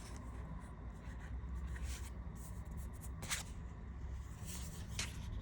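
Tarot cards being handled and flipped one by one: a few brief papery swishes, the clearest a little past three seconds in and another near five seconds.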